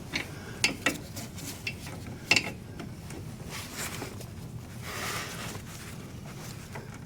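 Light metallic clicks and clinks of pliers gripping and working a spring hose clamp on a tractor's transmission hose, a few sharp ticks in the first couple of seconds, then a short rustle about five seconds in.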